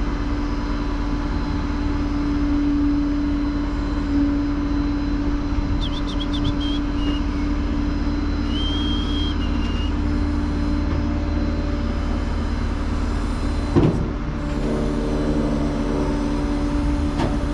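Tow truck's engine running steadily, heard from inside the cab while driving. A sharp knock comes about 14 seconds in, after which the engine note changes.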